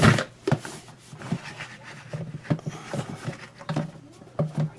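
Hard plastic humidifier parts being handled and fitted together: a sharp knock at the start, then scattered light clicks and taps.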